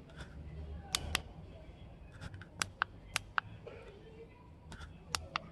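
A series of sharp, short clicks and taps in small clusters: a pair about a second in, several between about two and three and a half seconds, and a few more near the end, over a low steady hum.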